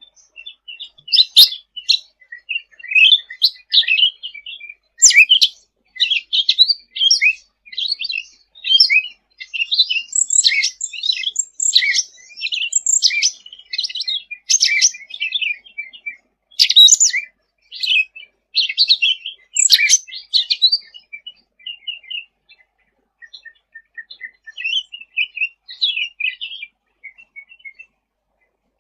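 Cucak ranting songbird singing a fast, busy string of high chirps and twitters. About twenty seconds in the song thins out into softer, scattered notes.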